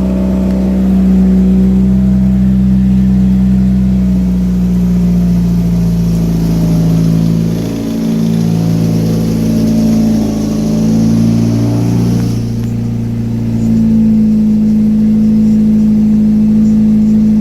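1998 Dodge/Plymouth Neon's four-cylinder engine running on a fast cold-start idle, about 1600 RPM. The idle hunts up and down in the middle, then settles steady over the last few seconds.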